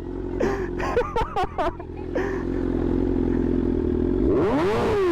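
Superbike engine idling, then revved once near the end, the pitch rising and falling back as the throttle is blipped and released.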